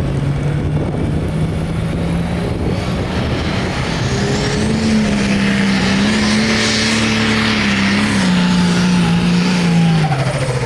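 Light Pro Stock diesel pulling tractor running under full load down the track. The engine climbs in pitch about four seconds in, holds high, then drops off sharply near the end as the throttle comes back.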